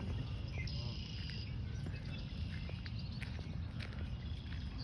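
Outdoor pond-side ambience: many short, high chirps from birds and insects, with a held high trill about a second in, over a steady low rumble.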